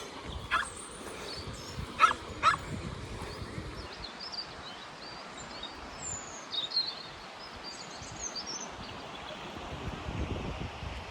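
River water rushing steadily, with small birds chirping high and brief near the middle. Three short sharp sounds stand out in the first few seconds, the loudest things here.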